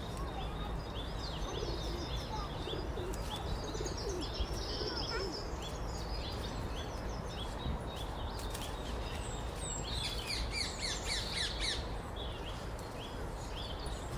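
Eurasian nuthatch singing: series of short, sliding whistled notes repeated several times a second. About ten seconds in, a denser burst of higher calls from other birds joins it, over a steady low background rumble.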